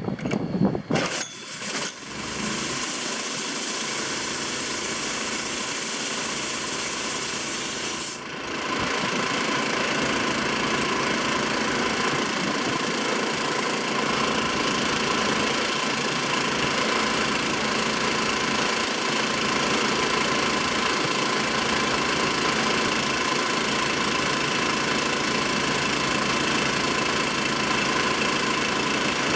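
Petrol air compressor's Honda 6.5 hp single-cylinder four-stroke engine starting with a few uneven bursts, then running steadily and driving the compressor pump. About eight seconds in the sound dips briefly, then runs on a little louder and steady.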